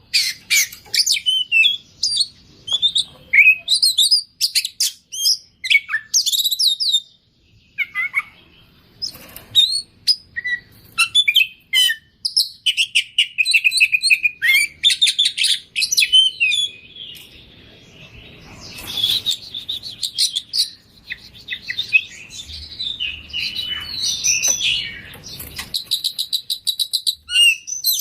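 Oriental magpie-robin singing continuously: a varied run of loud whistles, chirps and fast rattling trills, its song packed with mimicked phrases.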